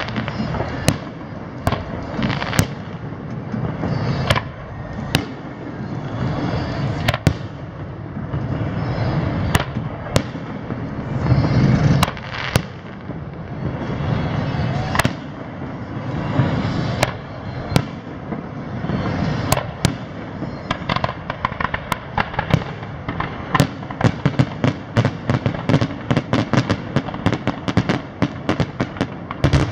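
Aerial fireworks shells bursting with sharp bangs, one every second or so over a steady low rumble. From about two-thirds through, the bangs come in a rapid, dense string.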